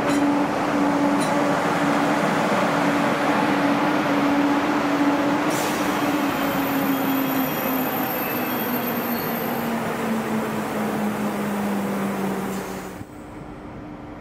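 Train moving through the station: a steady rail rumble with a single whine that slowly falls in pitch. The sound drops away suddenly about a second before the end.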